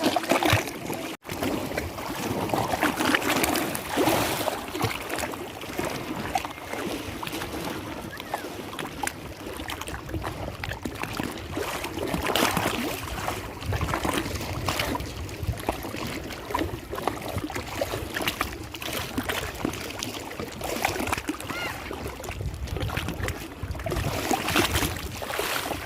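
Lake water lapping and splashing, with irregular louder surges of splashing every second or two over a steady wash.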